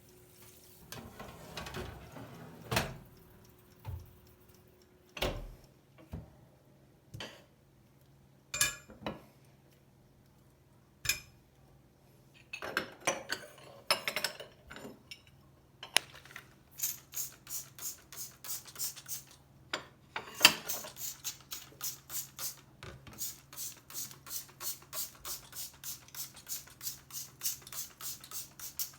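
Kitchen handling sounds: dishes and utensils knocked and set down a few times, then a brisk run of rhythmic strokes, about two to three a second, from about halfway through, over a low steady hum.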